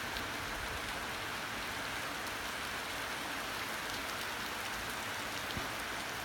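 Steady rain during a thunderstorm: an even hiss with faint drop ticks, no thunder.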